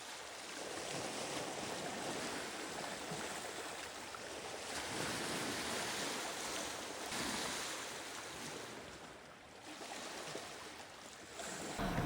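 Sea waves washing onto a beach: a steady hiss of surf that swells and eases every few seconds.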